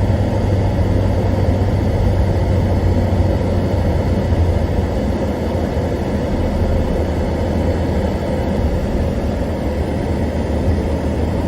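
Car on the move: a steady low drone of engine and road noise, with no change in pace.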